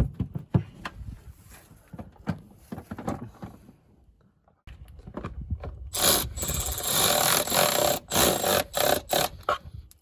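Knocks and scraping of parts being handled, then a cordless power tool running in several short bursts through the second half.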